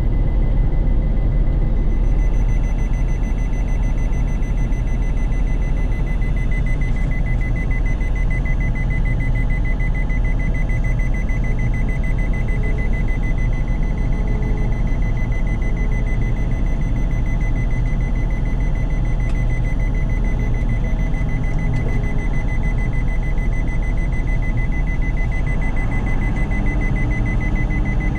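DON-1500B combine harvester's diesel engine running steadily under load, with an electronic warning beeper sounding a rapid, continuous high-pitched beeping over it.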